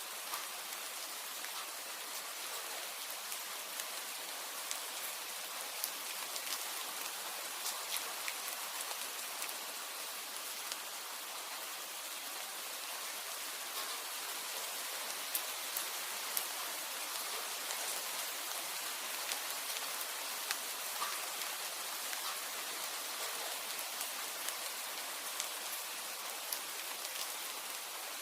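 Steady rain, an even hiss with many scattered sharp ticks of drops striking a surface.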